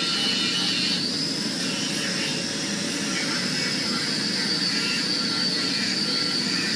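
A steady machine roar with a high hiss, even throughout and without any hammer blows.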